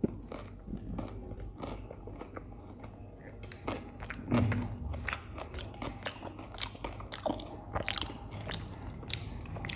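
A person chewing a toasted sandwich with the mouth open: crunching toasted bread and wet smacking, with many short clicks and crackles. There is one louder, deeper thump about four seconds in.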